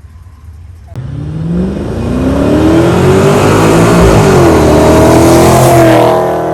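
A car engine accelerating hard. Its pitch climbs, dips briefly about four seconds in, then climbs again before easing off near the end.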